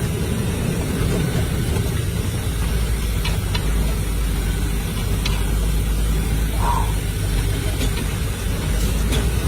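Cabover truck's diesel engine running steadily at a low, even pace.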